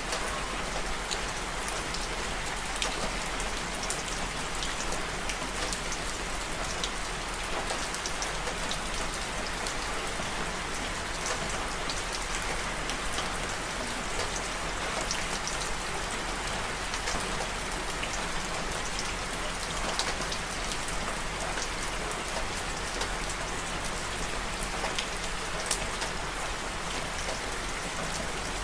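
Steady rain mixed with a crackling fireplace fire: an even hiss with scattered sharp ticks throughout.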